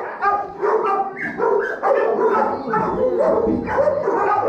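Several kennel dogs at an animal shelter barking at once, the barks overlapping in a continuous din.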